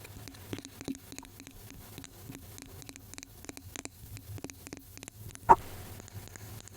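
Close-miked ASMR tapping: many light, irregular taps and clicks, a few each second, with one much louder sharp click that rings briefly about five and a half seconds in.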